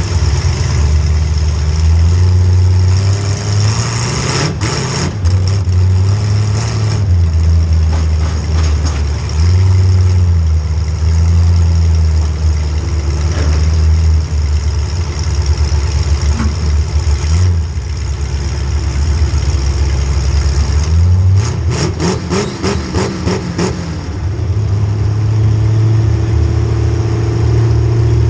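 Demolition derby car's small-block Chevy V8 revving up and dropping back over and over under hard driving, with sharp crunching impacts of collisions, a single hit about five seconds in and a quick run of hits about three quarters of the way through.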